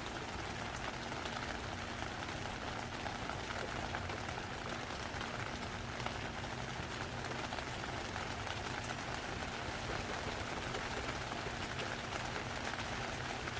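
Heavy monsoon rain falling steadily: a dense, even hiss dotted with fine drop ticks.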